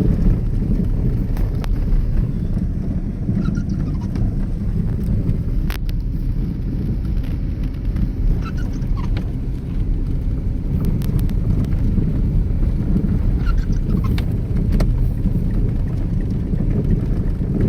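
Car driving on a storm-covered road: a steady low rumble of road and engine noise, with scattered faint clicks and ticks.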